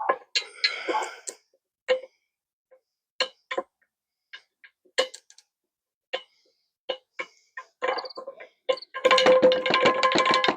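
Loose needle-bearing rollers from a universal joint dropping and tinkling on a hard surface. Single sharp metallic clicks with a short ring come every second or so, then a quick shower of many near the end.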